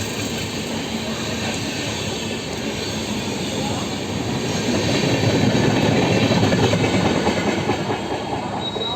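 Indian Railways express train running through at speed: wheels rumbling and clattering over the rail joints. The noise swells about halfway through, then eases off towards the end.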